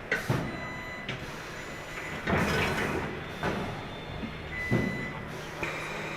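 Workshop clatter on a factory floor: several sharp knocks and bangs with a rougher noisy stretch in the middle, and a thin high tone coming and going.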